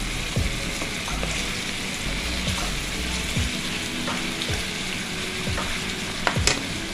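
Chicken pieces frying with garlic in hot oil in a pan, a steady sizzle, with a couple of sharp knocks of the spatula against the pan near the end as the pieces are turned.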